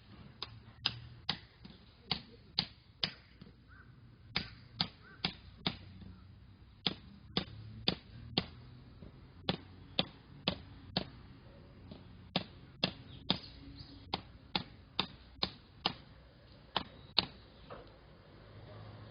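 A long series of sharp knocks in irregular runs, about two a second, with short pauses between runs.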